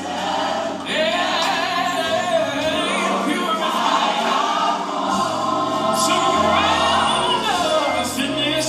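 Gospel music: a choir singing held, swelling lines over instrumental backing.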